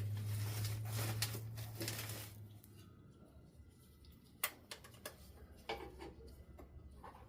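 Rustling and scraping of hands working with tools, with a few light, sharp clicks and knocks. A low steady hum fades out about two and a half seconds in.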